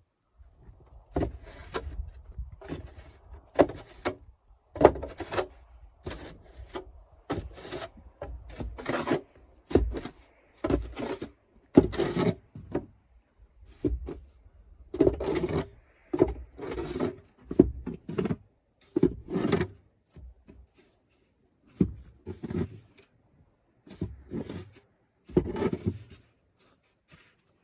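An irregular series of scrapes and knocks, some a second or less apart with short gaps between.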